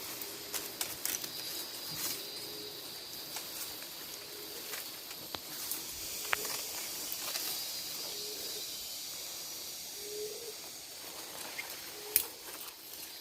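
Tropical forest ambience: a steady high insect chorus, with a short low call repeating about every two seconds and a few scattered sharp clicks.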